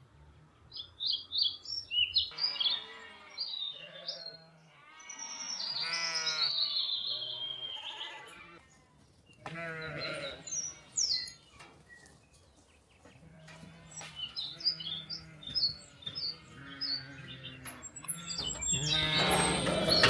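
Farm animals bleating in several long, wavering calls, with small birds chirping in between. The calls grow louder and overlap near the end.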